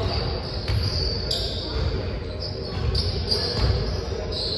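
A ball thudding repeatedly on a gym floor, with people's voices in the background.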